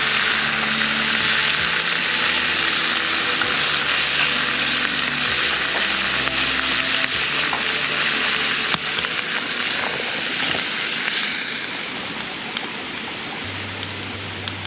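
Meat frying in a cast-iron skillet over a campfire, a loud steady sizzle that eases off about eleven seconds in.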